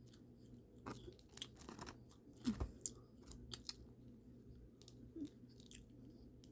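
A person chewing crunchy fried fast food, with irregular crisp crunches and wet mouth clicks that come most thickly between about one and four seconds in.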